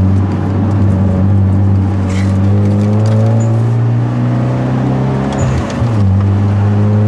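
Hyundai Genesis Coupe 2.0's turbocharged four-cylinder engine pulling under load, its pitch slowly rising. About five and a half seconds in, the revs drop briefly, then it picks up again at a lower pitch.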